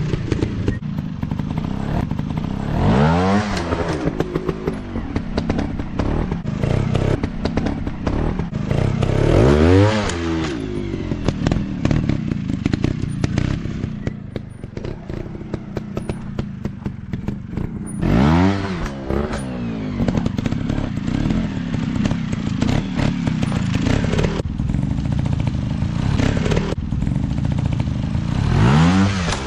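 Motocross dirt bike engines revving on a practice track, with a steady crackling, clattering engine note. Four times the pitch rises sharply and falls back as a bike revs up or goes by.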